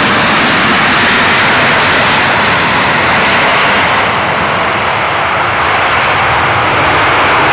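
Fixed-wing aircraft engines running loud and steady, a dense rushing noise whose highest part eases a little about four seconds in.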